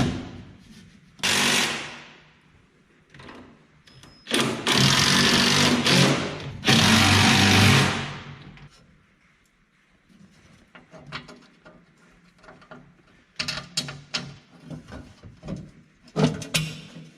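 A power driver runs bolts in three bursts of one to two seconds each. After that come lighter clinks and taps of metal parts being handled.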